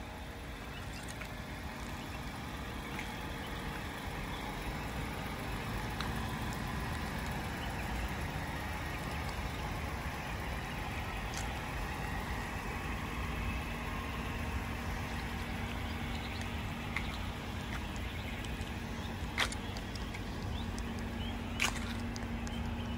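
Toyota Camry XSE's 3.5-litre V6 idling steadily, heard from outside the car. Two short clicks sound near the end.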